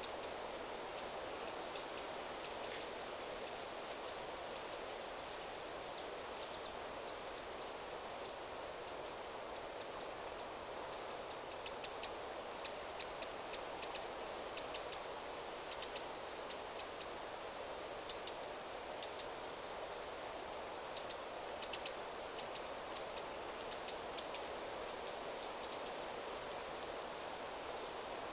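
Wind rustling steadily through forest trees, with a small bird giving short, high chipping calls, often in quick runs. The calls are busiest through the middle and later part.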